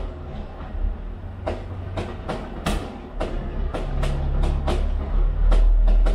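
Fireworks bursting in quick, irregular succession: many sharp cracks and bangs over a steady low rumble.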